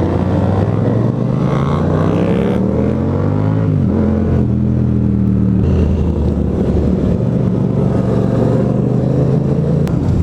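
Yamaha FZ-07 parallel-twin motorcycle engine accelerating, its pitch rising for a few seconds, then dropping at an upshift about four seconds in and running steadily at cruise, with wind rush.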